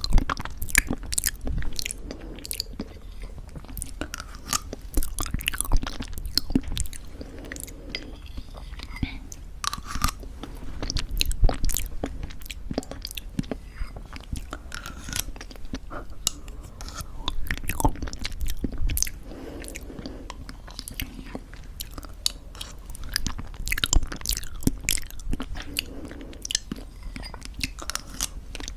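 Close-miked chewing of crunchy granola in thick yogurt: a dense run of sharp crunches and clicks in irregular clusters, with soft wet mouth sounds between them.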